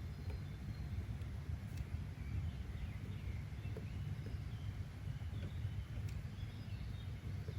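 Outdoor nature ambience: a steady low rumble with faint bird chirps scattered over it, mostly in the middle few seconds.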